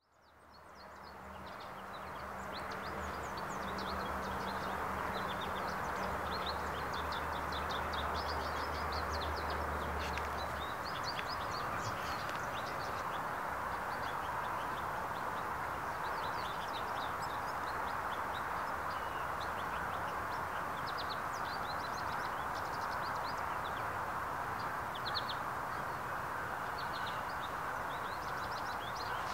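Small birds chirping in many quick short calls over a steady background hiss of outdoor ambience, fading in over the first few seconds. A low hum runs underneath for roughly the first ten seconds.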